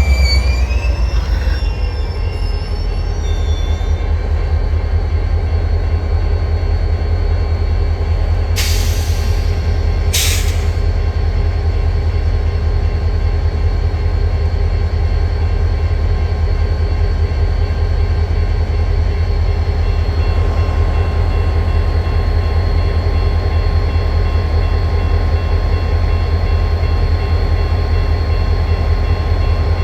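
Train rolling past with a steady heavy low rumble; a wheel squeal fades out in the first couple of seconds, and two short hisses come around nine and ten seconds in.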